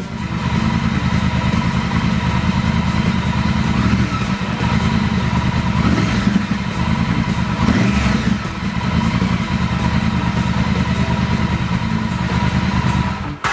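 2020 Triumph Speed Twin's 1200 cc parallel-twin engine idling, with two short throttle blips about six and eight seconds in.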